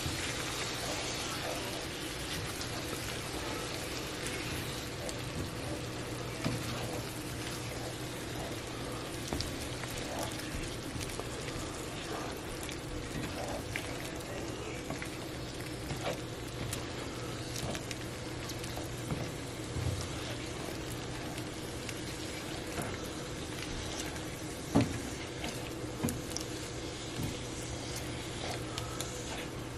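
Chicken, onions and green chiles sizzling in a non-stick skillet, with scattered clicks and scrapes of a silicone spatula against the pan and one louder knock late on. A steady low hum runs underneath.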